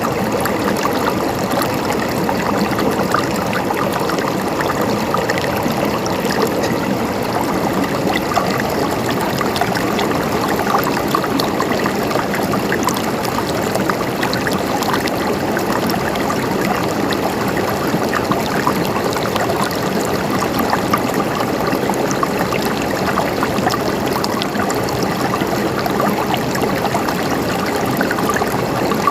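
Running water flowing and gurgling steadily, a dense, even splashing with no pauses.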